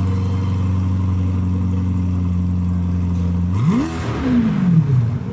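C8 Corvette V8 through a center-exit track exhaust, idling steadily, then blipped once about three and a half seconds in: the pitch climbs sharply and falls back to idle over about a second and a half.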